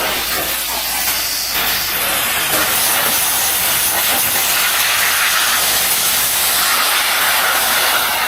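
High-pressure spray wand of a self-service car wash blasting water, a steady loud hiss.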